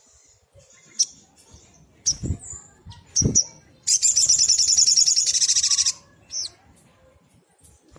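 Sunbird calling: a few short, sharp, high chirps, then a loud, fast, high trill lasting about two seconds, followed by one more short note.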